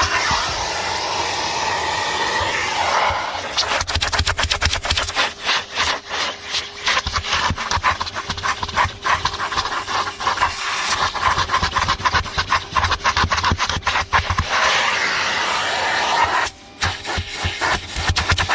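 Numatic Henry HVR200 cylinder vacuum cleaner running, its nozzle rubbing and scraping over car carpet with a dense crackle of clicks, under a faint steady motor whine. The sound dips sharply for a moment near the end.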